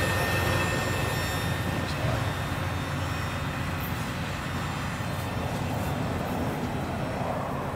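Rolling noise of the rear autorack cars of a CSX freight train passing and moving away, fading over the first few seconds into a steady low rumble.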